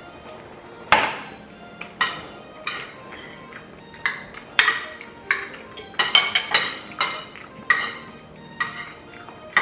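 Metal cutlery clinking and scraping against plates during a meal, about a dozen sharp clinks with short ringing tails, bunched into a quick run about six seconds in.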